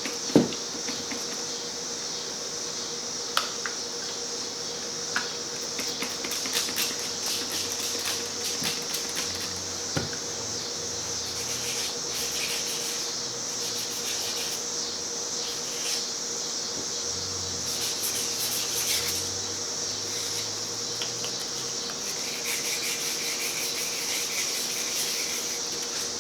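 Hand wet sanding of primered polyurethane parts with 800-grit sandpaper: irregular short scratchy rubbing strokes over a steady hiss, with a sharp knock right at the start.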